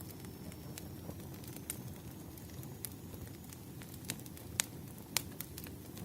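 Campfire crackling: a low steady rumble of burning wood with irregular sharp pops and snaps, the loudest a few seconds in.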